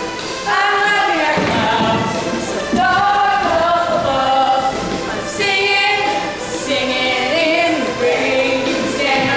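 A vocal group singing a song together, several voices in harmony.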